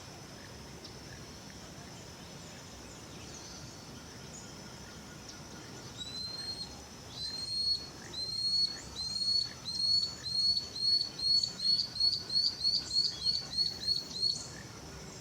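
Lanceolated monklet singing. Starting about six seconds in, a series of about twenty short, high, upslurred whistles that speeds up to about three a second and gets louder, then stops near the end, over a steady high-pitched background tone.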